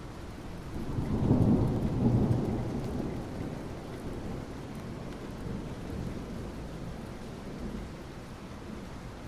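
Soft rain falling steadily on asphalt, with a low rumble of thunder that swells about a second in and fades away over the next few seconds.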